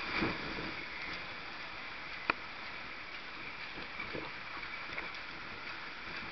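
Rough sea and wind making a steady wash of noise, with one sharp knock a little after two seconds in and a few softer low knocks.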